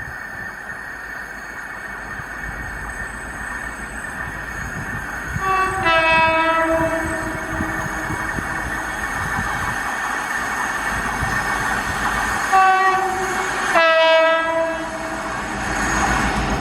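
Two-tone horn of a rail vehicle sounding three times, a high note dropping to a lower one, over the steady running rumble of the vehicle. The first and last calls are longer, and the middle call is short.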